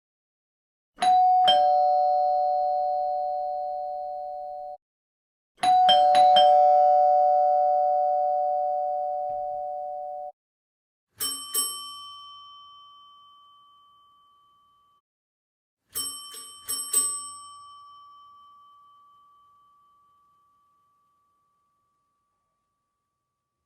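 Doorbell chimes sounding four times: twice a two-tone ding-dong, high note then lower note, each cut off after about four seconds, then twice a higher single-pitch bell, struck twice and then three times, each ringing out slowly.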